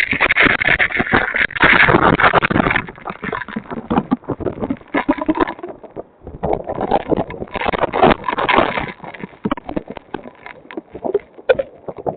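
Hurricane wind gusting and buffeting a security camera's microphone, rising and falling in loud surges every second or two.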